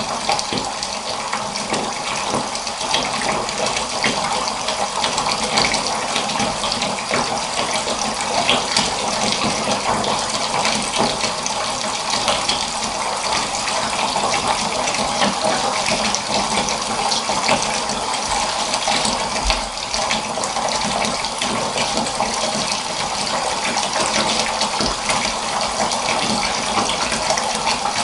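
Water running steadily from a tap into a filling bathtub.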